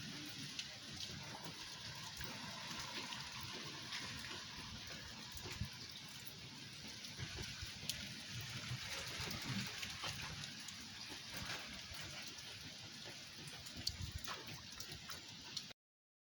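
Steady rain falling, with many scattered drops ticking on surfaces; it cuts off suddenly near the end.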